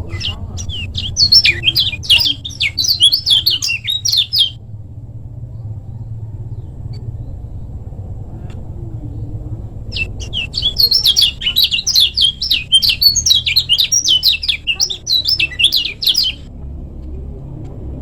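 Kecial kuning, a small white-eye, singing two bouts of rapid chattering song, the first about four seconds long, the second about six seconds, with a pause between. A steady low rumble runs underneath.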